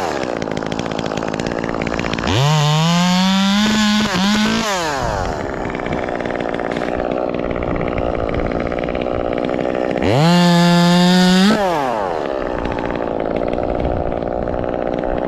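Ported Echo 2511T two-stroke top-handle chainsaw running at idle, revved up to high speed twice for a couple of seconds each time, about two seconds in and again about ten seconds in, with brief dips in speed during the first run-up.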